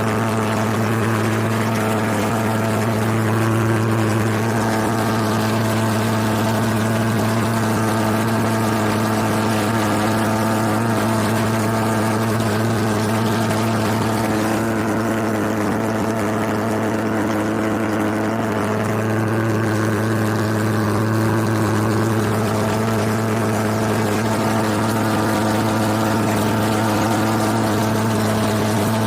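A steady mechanical drone with a low, unchanging pitch, like an engine or motor running at constant speed.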